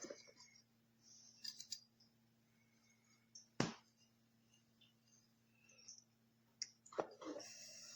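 Quiet, scattered clicks and light knocks, with one sharp knock about three and a half seconds in and another near the end, over a faint steady low hum.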